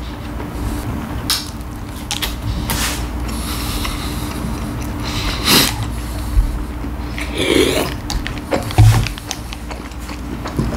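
A person chewing a mouthful of McChicken sandwich close to the microphone, with irregular wet mouth sounds and a few louder bites or gulps.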